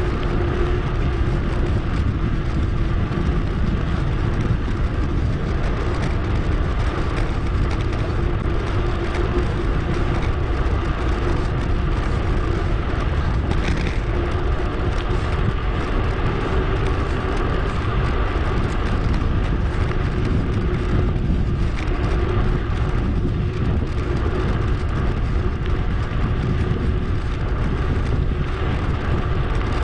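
Steady rumble of wind on an action-camera microphone and tyre noise from a mountain bike being ridden, sped up, with a faint steady hum underneath.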